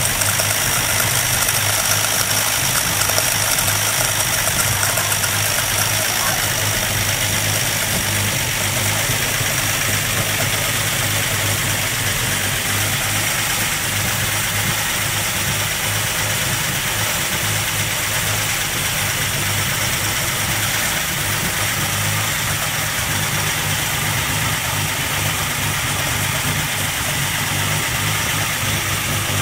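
Armstrong Siddeley Sapphire 346 straight-six petrol engine idling steadily on an engine stand, on its second start with the cooling system now filled.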